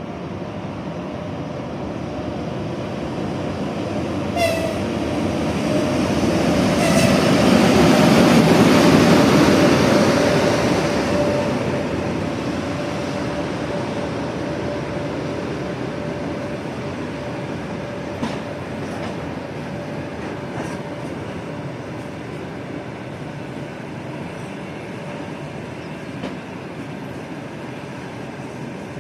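Electric locomotive hauling a passenger train passes at speed. Two short horn blasts come about four and a half and seven seconds in. The running noise swells to its loudest about nine seconds in, then slowly fades as the carriages roll past with occasional clacks over rail joints.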